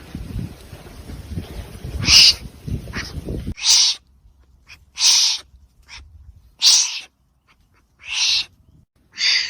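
A wombat giving a series of short breathy calls, about seven, each under half a second and spaced a second or so apart. A low rumbling background under the first few seconds stops abruptly.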